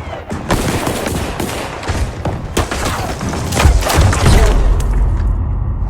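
Battle-scene film soundtrack: dense gunfire, many shots in quick succession, joined a little past halfway by a heavy explosion with a deep rumble that carries on.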